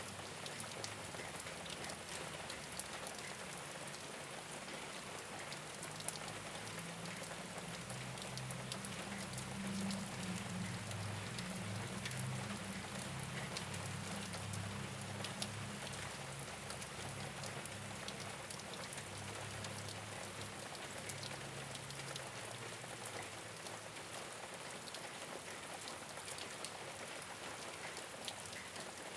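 Steady rain falling on a rooftop, a dense patter of drops with sharper individual drop ticks. A low rumble sits underneath through most of it and fades out near the end.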